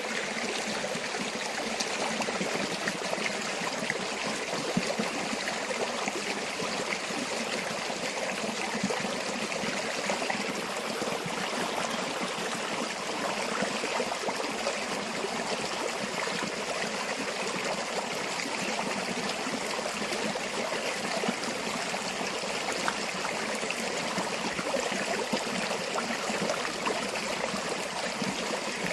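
A river or stream flowing steadily over rocks, a continuous rushing and babbling of water.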